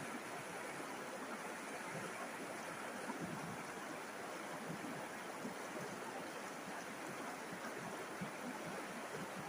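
River water flowing and babbling steadily, a continuous rushing with small splashy flickers.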